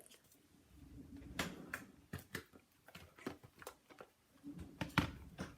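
Paper and card pieces being handled on a craft table: light rustling and a scatter of small taps and clicks, with one sharper click about five seconds in.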